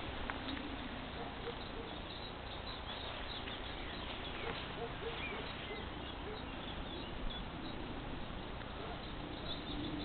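Wild birds singing: many short chirps and brief trills scattered throughout, over a steady outdoor hiss.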